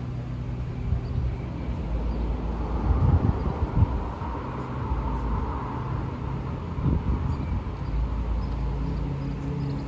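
Diesel train running: a steady low engine hum under a rolling rumble, with a few sharp knocks about three to four seconds in and again near seven seconds.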